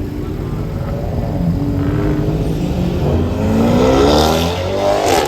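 A car's engine revving up hard as it accelerates, its pitch climbing steeply from about three seconds in and loudest just before the end.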